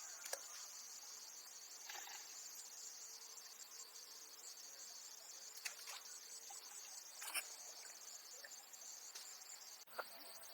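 A steady, high-pitched chorus of insects chirring, with a few faint sharp clicks scattered through it.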